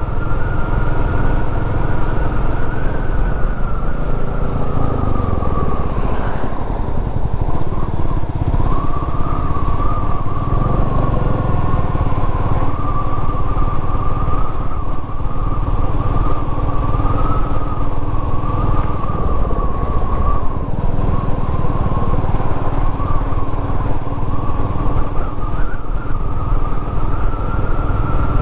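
Royal Enfield Meteor 350's single-cylinder engine running under way, with its pitch falling as the bike slows about four to six seconds in, then picking up again and running steadily.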